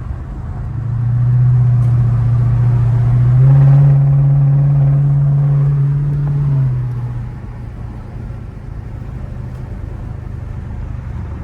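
Chrysler 300's Hemi V8 accelerating, heard from inside the cabin: the engine note swells about a second in, steps up in pitch around three and a half seconds, then drops back and fades near seven seconds, leaving steady road rumble.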